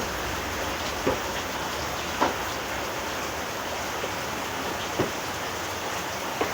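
Steady rain falling, with a few louder single drops striking close by, about four times.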